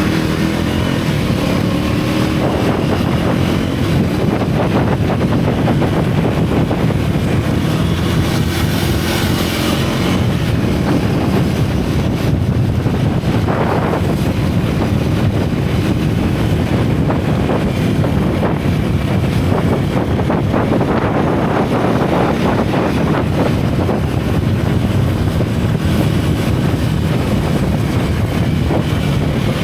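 Single-cylinder motorcycle engine running steadily at riding speed, heard from on the bike, with wind rushing over the microphone.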